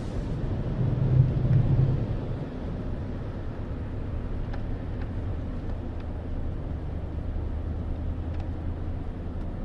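Steady low rumble of a running motor vehicle engine, with a constant low hum and a brief swell in level about a second in.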